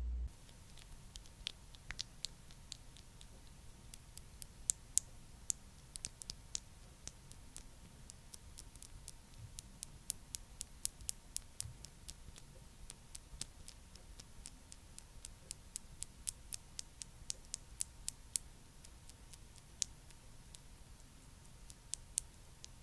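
Close-miked, irregular crisp clicks and ticks, several a second at times, over a faint steady hiss.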